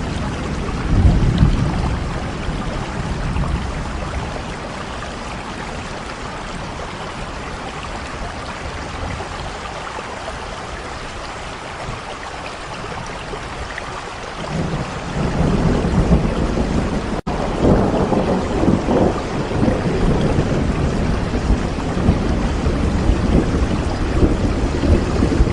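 Steady rain with rolls of distant thunder: a short rumble about a second in, then a longer, heavier rolling rumble from a little past the middle. There is a split-second dropout in the sound about two-thirds of the way through.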